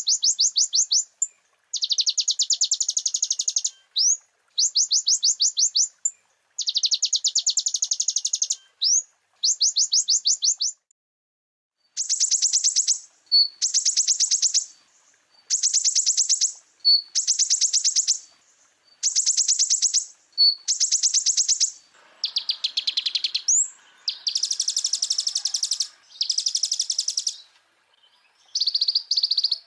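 Brown-throated sunbird (kolibri ninja) singing: repeated bursts of fast, high trilled notes, about ten a second, each burst lasting a second or so with short gaps between. Past the middle the phrases turn rougher and scratchier.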